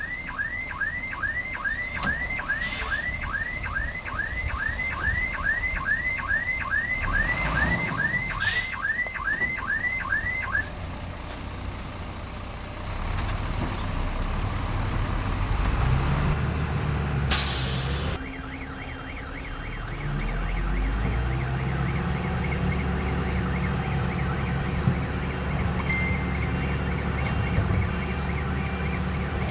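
A reversing alarm chirping about three times a second for the first ten seconds, over diesel heavy equipment running. After that a diesel engine runs louder, with a short hiss about two-thirds through, then runs on steadily with a fainter rapid beeping.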